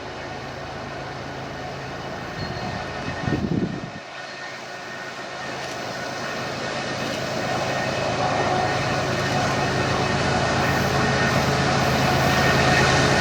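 Freight train hauled by GE ES44AC and ET44AC diesel locomotives approaching, its engine drone and rail noise growing steadily louder. A brief low buffet about three seconds in.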